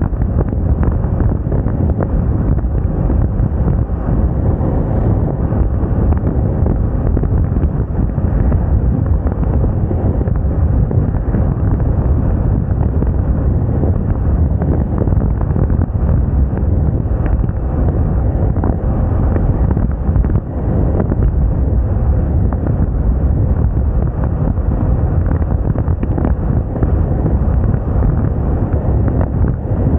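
Loud, steady wind rush buffeting the microphone of a Moda Moca 110 scooter being ridden at speed, with the scooter's running and road noise underneath, dipping briefly about two-thirds of the way through.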